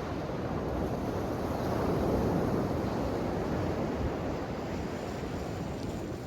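Ocean waves washing in a steady surf, swelling to a peak about two seconds in and then easing off.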